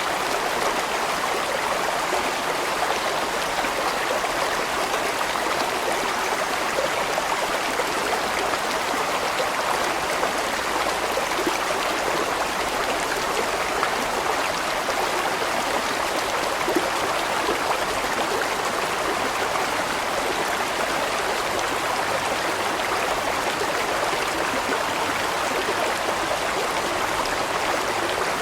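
A large mountain stream flowing steadily, an even wash of running water that does not change.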